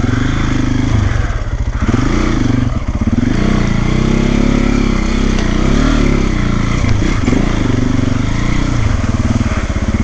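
Single-cylinder trail motorcycle engine at low speed, its revs rising and falling again and again as the throttle is worked through ruts and rough going.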